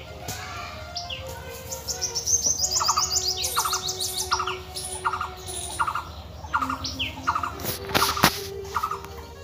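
Small birds chirping: a rapid run of high chirps, then one bird repeating a short call about every two-thirds of a second. One brief, sharp, loud noise about eight seconds in.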